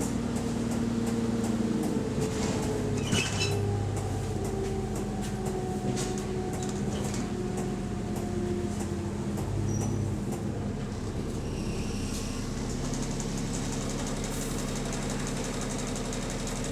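Bus engine heard from inside the passenger cabin, its note rising and falling over the first ten seconds and then running steadily, with clicks and rattles from the bus around it.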